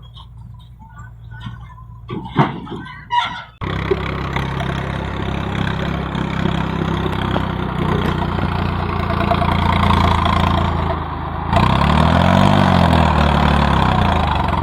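A rooster crows a few times in the first seconds, then a tractor's diesel engine runs steadily from about four seconds in. Near the end the engine is revved, its note rising and falling.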